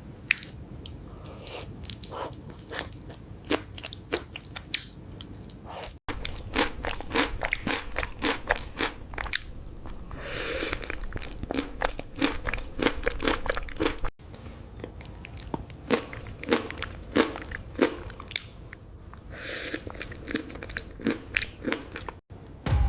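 Close-miked eating: crunching, biting and chewing of food, many sharp crackling bites in quick succession. The sound drops out briefly three times where the clip is cut.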